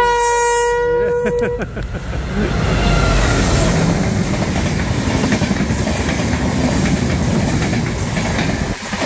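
Enterprise express train's horn sounding a long steady blast that cuts off about a second and a half in, then the train rushing past at speed with loud wheel-on-rail clatter.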